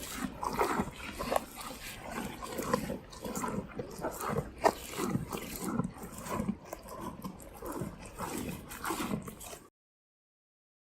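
Cattle making a run of short, irregular grunts and snuffling noises, cutting off abruptly near the end.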